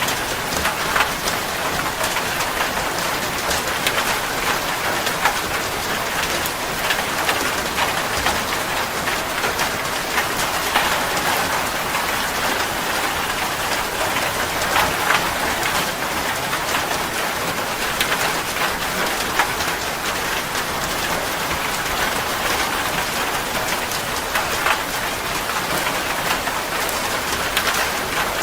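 Steady rain falling on a surface, with many separate drop hits standing out from the even hiss.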